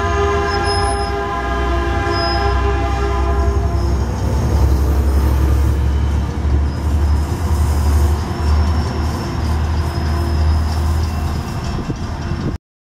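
A train horn sounds and fades out about three seconds in. The train keeps running with a loud, steady low rumble until the sound cuts off suddenly near the end.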